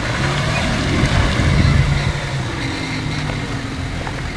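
Audi Q7 3.0 TDI V6 turbodiesel moving off slowly. Its engine note swells about a second in, then settles to a steady hum as the car rolls by.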